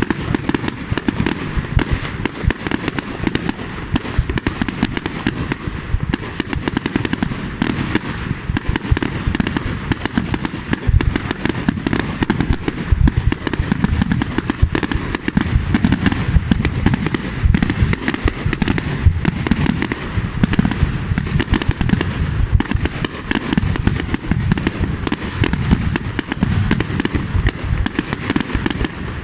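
Aerial fireworks display: a dense, continuous barrage of bangs and crackling shells with no let-up.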